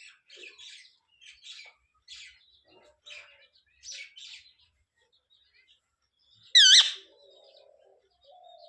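Pet green parrot chirping softly in short bursts, then giving one loud screech about six and a half seconds in.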